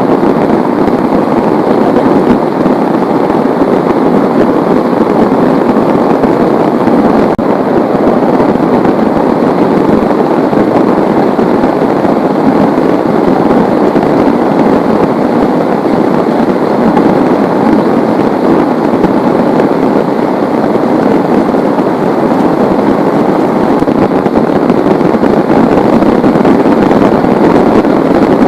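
Heavy rain falling steadily, a dense even patter of drops that does not let up.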